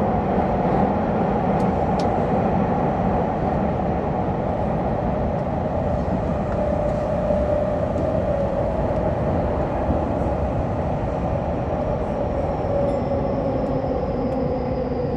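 Underground metro train running at speed through a tunnel, heard from inside the front car: a steady rolling rumble of wheels on rail with a whine that wavers and drops slightly in pitch near the end.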